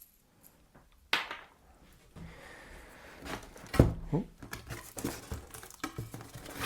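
Cardboard and polystyrene packaging rustling and scraping as drill parts are handled and taken out of the box, with a few knocks and one heavy thud a little under four seconds in.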